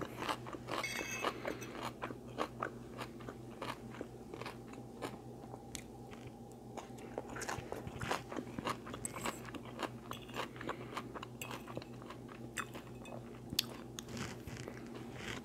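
A person chewing food close to the microphone: irregular crunches and small mouth clicks, several a second, over a faint steady hum.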